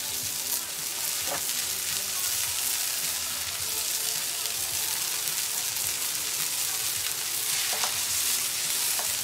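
Hamburger patty and onions sizzling steadily on a hot flat-top griddle, with a couple of faint clicks.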